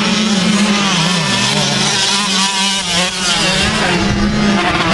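Dirt bike engines racing, revving up and down so the pitch rises and falls over and over, with more than one engine heard at once.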